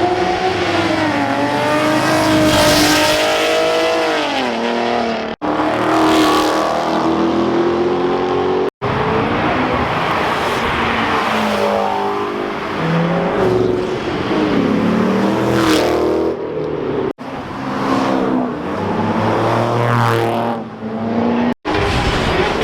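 Car engines revving and accelerating hard, one car after another, the pitch climbing and dropping through the revs, in short stretches that cut off suddenly several times.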